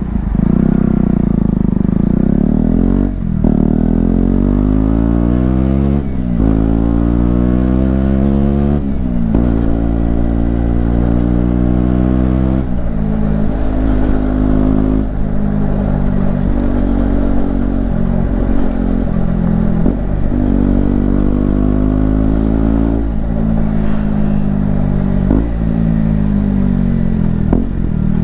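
KTM Duke 125's single-cylinder four-stroke engine accelerating through the gears, its pitch climbing and then dropping sharply at each upshift, about every three seconds, four times. After that it runs at steadier revs with smaller rises and dips.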